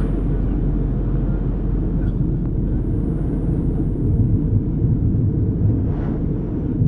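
Steady low rumble of a passenger airliner's cabin in flight: engine and airflow noise.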